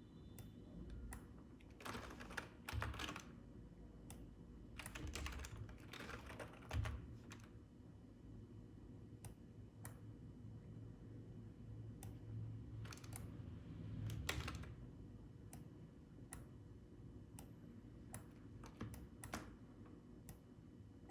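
Computer keyboard keys clicking faintly, in a few short flurries of presses and scattered single taps, over a low steady hum.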